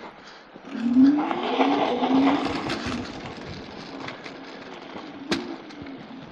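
Dual-motor electric scooter accelerating over snow, its motors whining in three short rising spurts over tyre noise. The sound is loudest as it passes about a second in, then fades.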